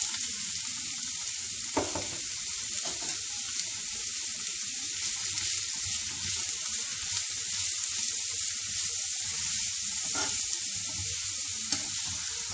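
Finely chopped carrot sizzling steadily in hot oil in a frying pan as it is stirred with a spatula, with a few sharp taps of the spatula against the pan.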